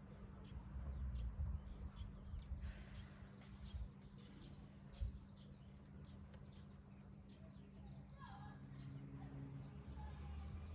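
Wood fire burning in a rusted can, crackling faintly with scattered small sharp pops.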